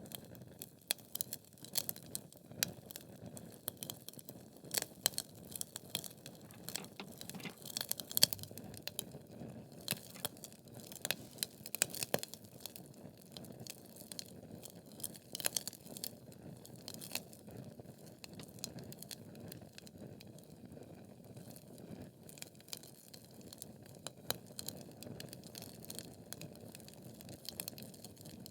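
Wood fire burning in a fireplace: logs crackling with irregular sharp pops and snaps over a low steady hiss of flame.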